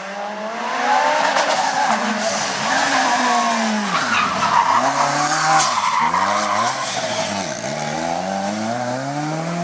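Lancia Delta S4 Group B rally car's twin-charged 1.8-litre four-cylinder engine under hard acceleration, its pitch climbing and dropping back repeatedly as it is revved and shifted.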